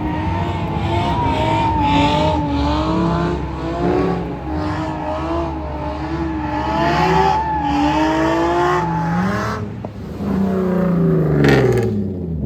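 Cars doing donuts: engines revving up and down with tires squealing in a wavering whine. Near the end one engine's revs fall away steadily.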